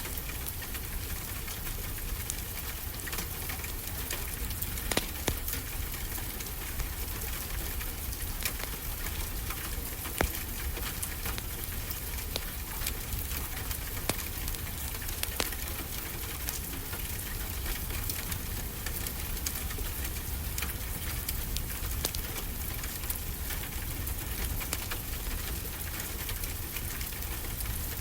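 Steady rain with a wood fire crackling, a few sharper pops standing out every few seconds.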